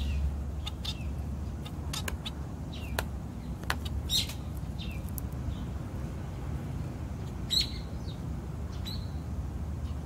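Small birds giving scattered short chirps and calls, several of them quick falling notes, with a louder pair of calls near the middle and another near the end, over a steady low background rumble.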